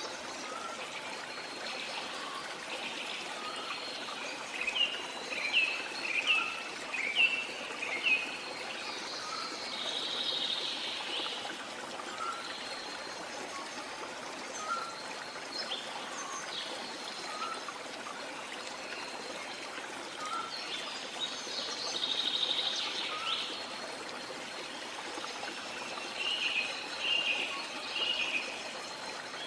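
A stream running steadily, with birds calling over it. A run of short falling chirps comes about four seconds in and again near the end, with buzzy trills about ten seconds in and again past the twenty-second mark, and a soft short note repeating every second or two.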